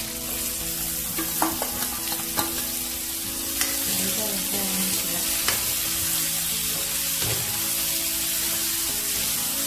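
Pork and chopped raw mango frying in hot oil in a wok, sizzling steadily, while a metal spatula stirs them with a few scrapes and knocks against the pan.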